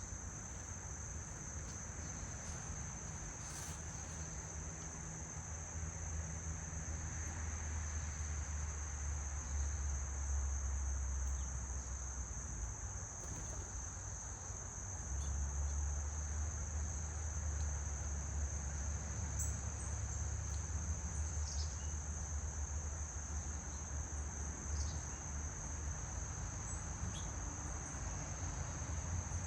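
Steady high-pitched chorus of trilling insects, unbroken throughout, over a low rumble that swells and fades, with a few faint short chirps.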